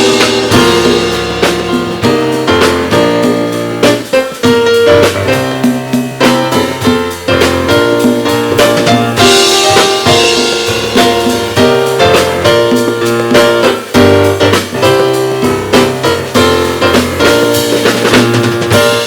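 Live band music with piano or keyboard chords, bass and a drum kit playing a steady beat.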